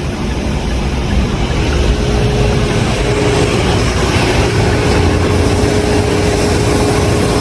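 Coin-operated car-wash vacuum running, a loud steady rushing of suction with a steady hum joining in about a second and a half in.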